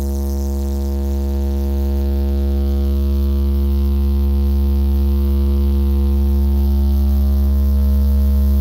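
Carnival sound system blasting one long, steady, buzzy low drone: a deep bass tone under a held note with many overtones.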